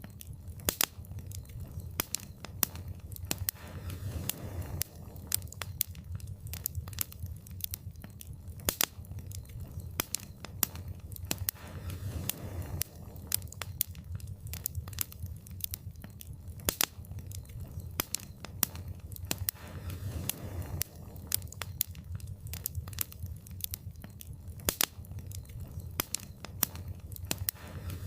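Fireplace fire crackling: frequent sharp pops and snaps, irregular and unbroken, over a low steady rumble of the flames.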